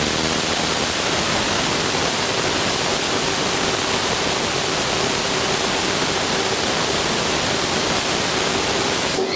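Small gaseous-oxygen/ethanol liquid rocket engine (200 N thrust) firing steadily: a loud, even rushing noise with a faint steady tone underneath.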